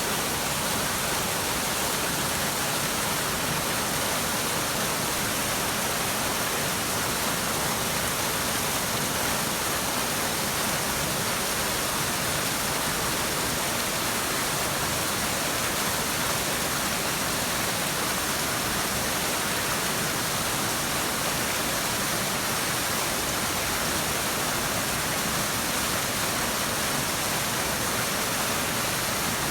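Waterfall pouring, a steady rushing of falling water that does not change.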